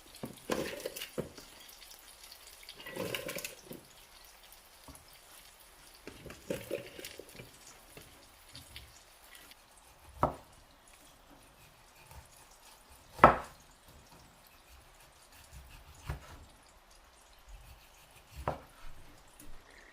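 Water dripping and splashing, with three sharp knocks in the second half, the middle one the loudest.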